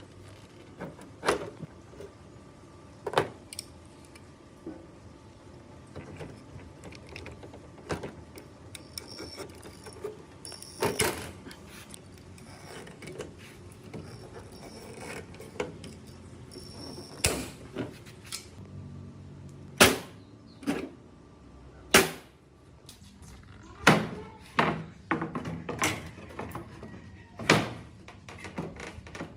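Irregular knocks and clunks from hand work on parts, about a dozen sharp impacts at uneven intervals, with the loudest ones in the second half.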